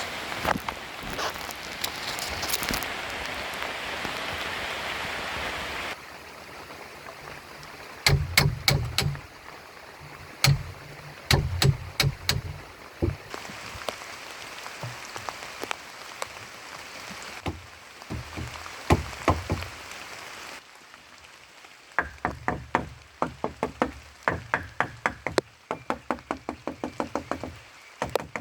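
Steady rain for the first few seconds, then a series of sharp knocks, scattered at first and becoming a quick regular run of about three a second near the end.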